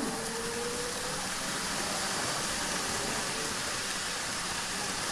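N-gauge model train running along the track: a steady, even whirring rush of wheels and motor with no break.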